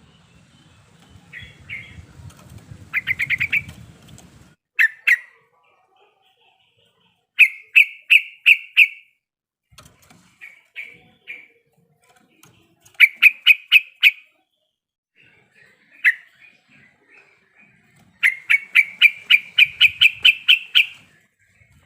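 Yellow-vented bulbul (trucuk) singing in bursts of quick, repeated chattering notes, each run about one to three seconds long with pauses between, the longest run near the end.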